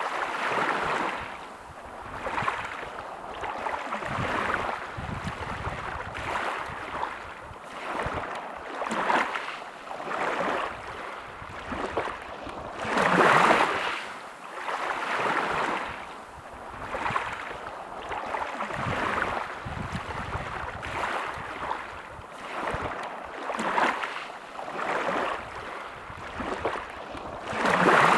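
Sea waves washing onto a beach: a rushing noise that swells and fades every second or two, with bigger waves breaking about 13 seconds in and again near the end.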